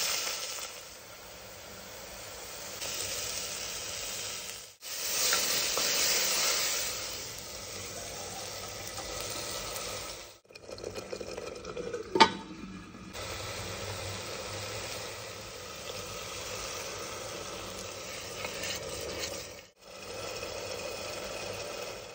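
Chicken curry masala sizzling and frying in oil in a pan, in several short stretches with abrupt cuts between them. About halfway there is one sharp clink as a stainless-steel lid is handled.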